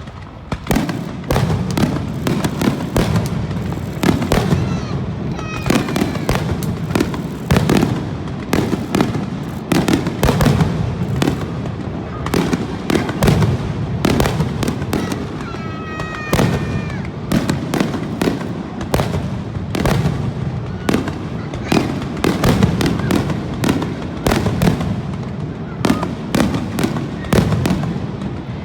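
Aerial fireworks going off in a dense barrage of booms and cracks, many a second without a break, over a continuous low rumble. Short whistling glides rise through it twice.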